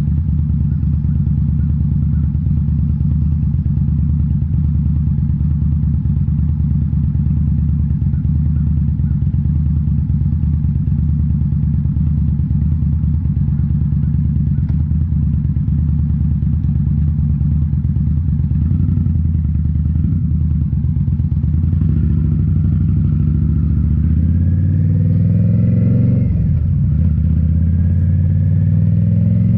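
A 2018 Indian Scout Bobber's V-twin engine running through Rinehart slip-on mufflers. It holds a steady, deep note for most of the time. Then it climbs in pitch, drops sharply and climbs again, like acceleration through a gear change.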